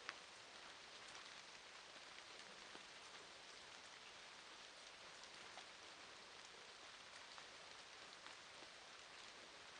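Faint, steady rain, an even hiss with scattered ticks of single drops.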